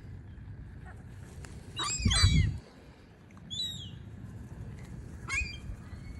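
Gulls calling: three short, high, mewing cries about two, three and a half and five seconds in, the first the loudest and joined by a brief low rumble, over steady low outdoor noise.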